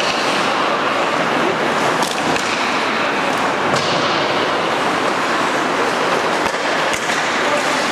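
Ice hockey rink noise during play: a steady scraping hiss of skates on the ice, broken by a few sharp clicks and knocks of sticks and puck, notably about two seconds in and again just before four seconds.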